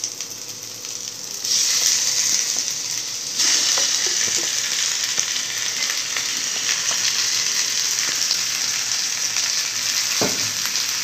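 Raw chicken pieces going into a wok of hot oil with sautéed shallots and garlic. The frying sizzle jumps up sharply about a second and a half in as the chicken hits the oil, then keeps up a steady sizzle. There is a single knock near the end.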